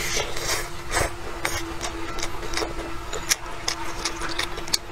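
Close-up eating sounds: biting into and chewing a flatbread wrap filled with shredded vegetables and chili peppers, giving many quick, irregular moist crunching clicks. A faint steady tone hums underneath.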